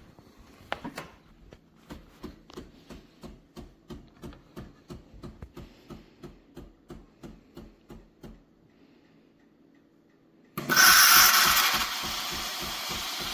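Philips Series 2300 fully automatic espresso machine pulsing rhythmically, about three pulses a second, while making a drink. The pulsing stops, and after a short pause a loud steam hiss starts suddenly with the pulsing beneath it: the machine frothing milk for a cappuccino.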